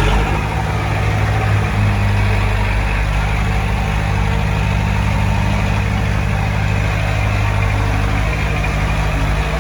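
Heavy-equipment diesel engine running steadily with a low, even drone.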